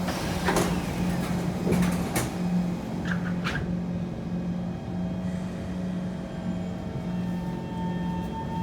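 Inside a Kawasaki C151 MRT train car standing at a station, with a steady, slightly pulsing electrical hum from the train's equipment. Several knocks and clatters come in the first few seconds, then it settles to the hum.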